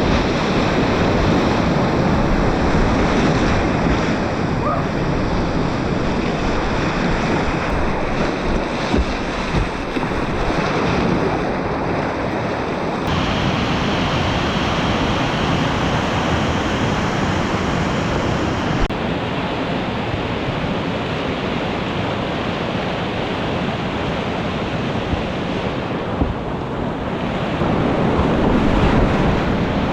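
Whitewater rapids rushing loudly and steadily around a kayak running a river, with wind on the microphone.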